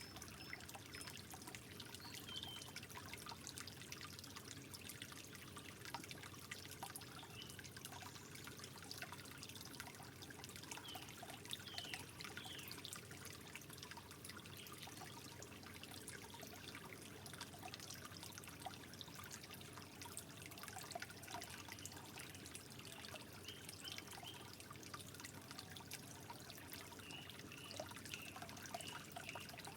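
Water trickling gently and steadily, with many small plinks and drips.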